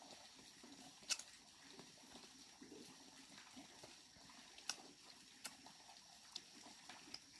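Near silence, with a few faint sharp clicks or snaps, the clearest about a second in and again near the middle.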